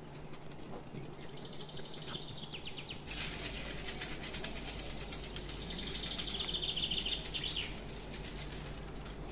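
A small bird trilling twice in the background, each time a rapid run of high chirps lasting about a second, the second run longer. Under it is a steady hiss of background noise that gets louder about three seconds in.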